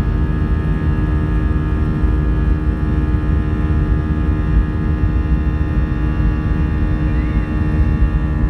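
Airbus A320 jet engines running steadily: a low rumble with several steady whining tones over it.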